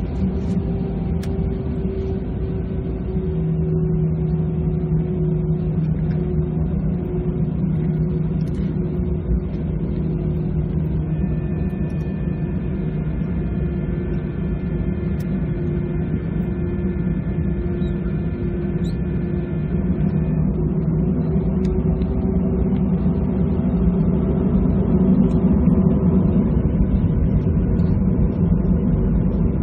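An Airbus A320-214's CFM56 jet engines running, heard from inside the cabin during taxi: a steady low hum and rumble. In the middle, a set of higher steady whining tones joins for about nine seconds. The sound grows a little louder in the last third.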